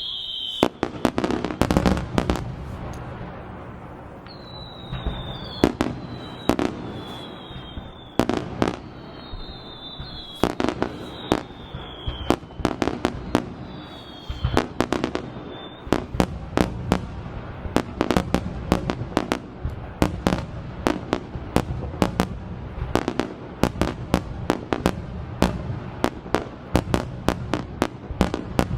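Aerial fireworks bursting with sharp bangs, mixed with several short whistles that fall in pitch between about four and fifteen seconds in. From about sixteen seconds in the bangs come fast and close together as a rapid-fire barrage.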